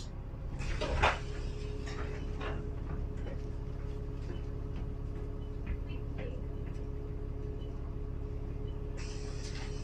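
Alexander Dennis Enviro400 double-decker bus engine idling with a steady low rumble and hum, with a short hiss about a second in and another hiss near the end, and faint ticks and clicks.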